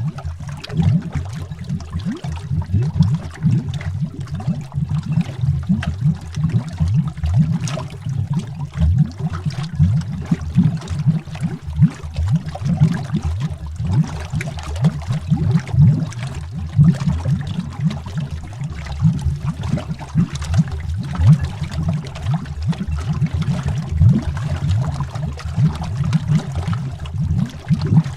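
Underwater bubbles: a steady stream of low bubbling pops and gurgles, heard as if from under the water.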